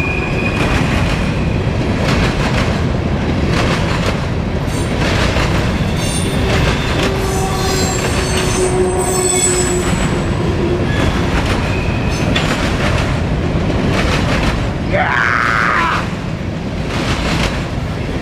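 Freight cars of a grain train rolling past, with a steady rumble of steel wheels on rail. Thin wheel squeals come and go, and one squeal bends in pitch near the end.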